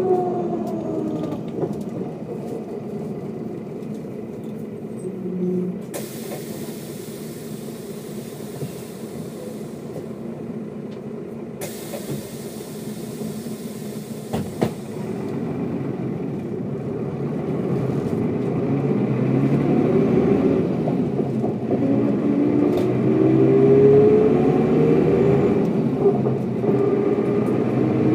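Mercedes-Benz O407 bus's inline-six diesel engine winding down as the bus slows, then running quietly for a while, with two long bursts of air hiss. In the second half the engine pulls away and accelerates, its note rising and growing louder.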